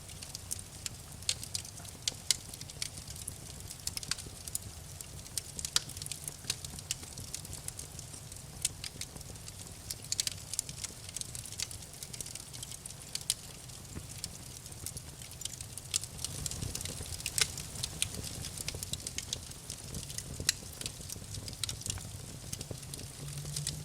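Wood fire crackling in a fireplace: frequent irregular snaps and pops over a low steady rumble.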